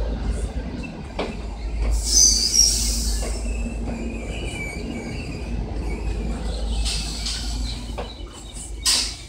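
Passenger railway coaches rolling past as the train arrives, with a steady rumble and high metallic wheel squeals. The squeals are loudest about two to three seconds in and come again near seven seconds. Sharp clicks from the wheels over rail joints fall throughout, with a loud one near the end.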